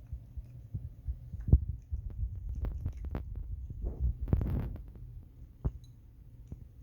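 Ragdoll cat eating dry kibble close to the microphone: irregular crunches and clicks over a steady low hum, with a sharp crunch about a second and a half in and a rougher run of chewing around four and a half seconds.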